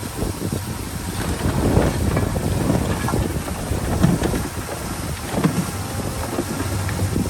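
Heavy earthmoving machinery working: a diesel engine running under a dense noise with many irregular clanks and rattles, and wind buffeting the microphone.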